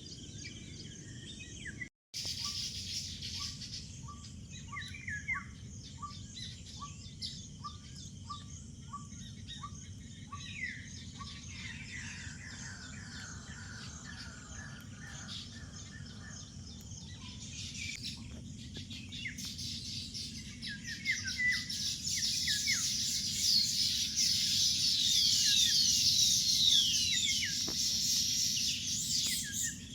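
Birds calling: a run of short repeated notes, about two a second, then many birds chirping together in a dense high chatter that grows louder about two-thirds of the way through. A brief gap early on suggests a cut.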